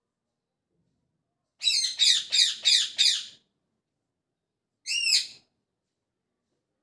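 Pet parrot calling: a quick run of five sharp chirps, then a single arching call about a second and a half later.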